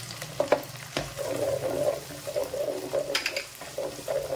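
Ginger-garlic paste and whole spices sizzling in hot oil in a pan as they are stirred, with a crackly, uneven frying sound. A few sharp clicks come through, two just under half a second in, one at about a second and a cluster around three seconds.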